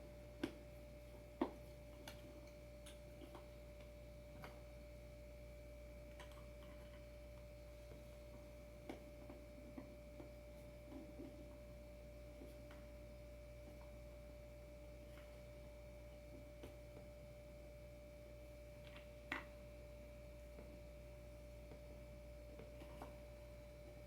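Quiet room with a faint steady electrical hum and tone, broken now and then by light clicks and taps of small board hardware being handled, the sharpest about a second and a half in and again about 19 seconds in.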